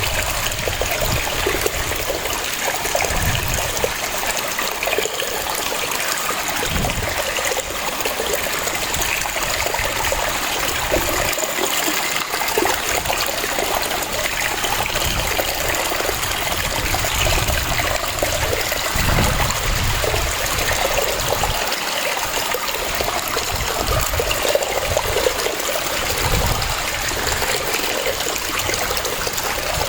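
Waterfall: a steady rush of falling water, with a low rumble that swells and fades every few seconds.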